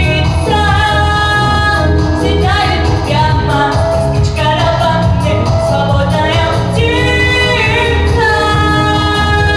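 A song with a female voice singing a held, gliding melody over a steady instrumental accompaniment.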